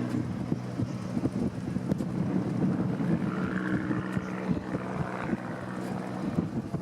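Dornier Do-27 light aircraft's piston engine and propeller running steadily in flight, fading slightly near the end, with wind buffeting the microphone.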